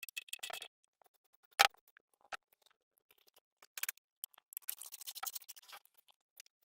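Quick run of clicking that stops under a second in, then scattered light clicks, one sharp knock, and another short run of quick clicking.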